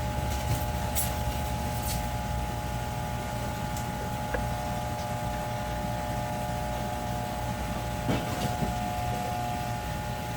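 Steady machine hum with a constant low drone and a few held tones, broken by a few short clicks.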